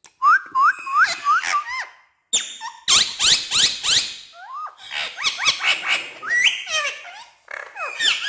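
Pet parrot whistling and chirping: a quick run of short rising whistles, a brief pause about two seconds in, then a fast, busy stream of sweeping chirps and squawky whistles.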